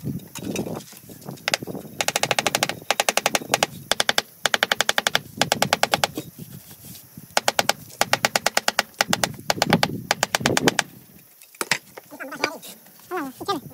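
Bursts of rapid, evenly spaced mechanical clicking, about a dozen a second, that stop and start several times, with duller knocks in between.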